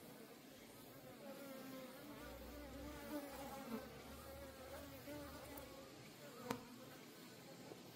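Many Korean native honeybees buzzing in flight, a faint steady hum whose pitch wavers. One sharp click sounds about six and a half seconds in.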